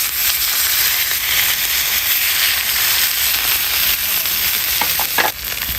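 Wood fire burning hard in a camping wood stove, a steady loud hiss with faint crackle.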